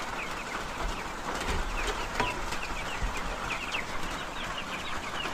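A flock of young chickens peeping, many short falling chirps in quick succession, over a steady hiss of rain.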